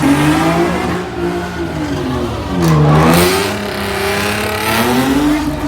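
A car engine revving, its pitch rising and falling over and over, with a deep drop and climb back about three seconds in.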